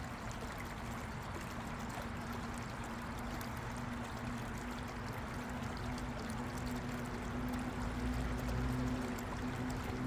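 A small stream running steadily, water rushing and trickling over rocks, with a faint low steady hum underneath that grows slightly near the end.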